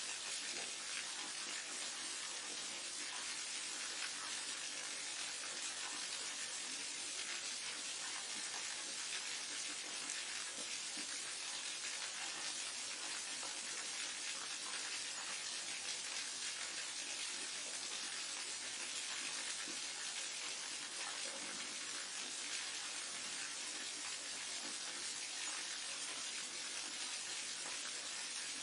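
Forest waterfall: a steady, even rush of falling water, mostly a bright hiss with little low rumble.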